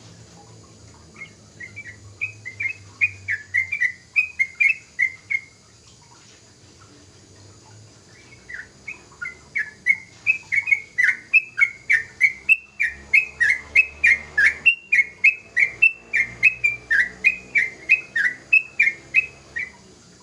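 Young yellow-vented bulbul (trucukan) singing in rapid runs of short, falling whistled notes, about three a second. One run stops after about five seconds, and a longer run starts about eight seconds in.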